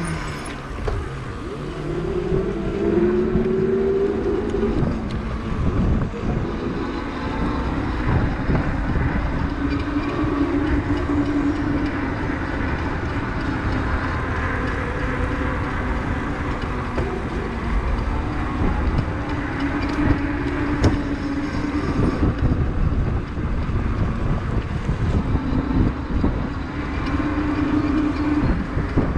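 Fat-tire e-bike riding on wet pavement, with wind rumbling on the microphone. Over it is a hum from the tyres and motor that rises and falls in pitch with speed.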